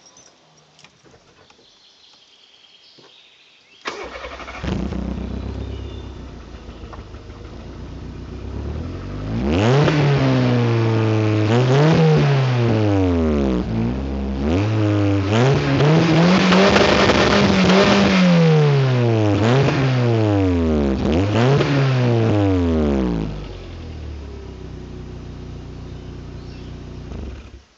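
Volkswagen Polo 6N engine through an aftermarket Sebring exhaust: it starts about four seconds in and idles, then is revved up and down about five times, one rev held for a couple of seconds, before settling back to idle.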